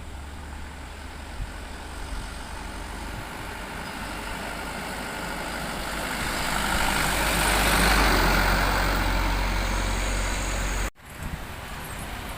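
Heavy truck going past, its engine rumble and road noise building to a peak about eight seconds in and easing after, broken by a sudden cut near the end.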